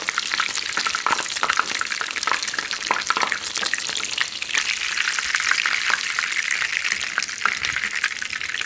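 Egg-battered cod fillets sizzling and crackling in a generous layer of hot oil in a frying pan, with a steady hiss and many small spitting pops.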